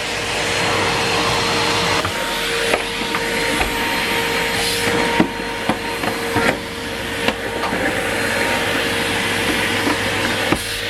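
Numatic Henry Pet cylinder vacuum cleaner running steadily with a rushing hum, and scattered short clicks and knocks throughout.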